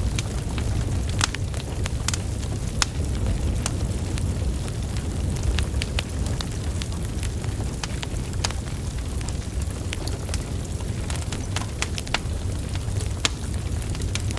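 Wood fire burning: a steady low rumble of flames with frequent sharp crackles and pops from the burning logs, scattered irregularly.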